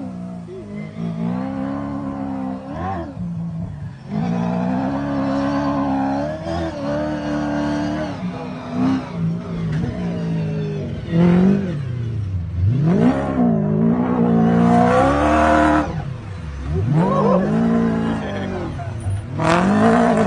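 Rally car engine revving hard at full throttle, its pitch repeatedly dropping and climbing again through gear changes and lifts. It surges loudest near the end.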